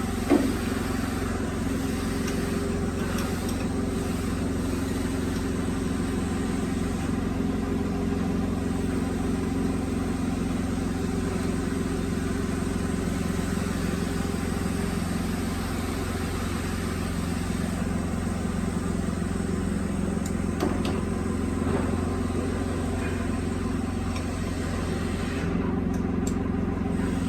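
Woodworking multi-head chisel mortising machine running with a steady motor drone. There is a light knock just after the start and another about twenty seconds in.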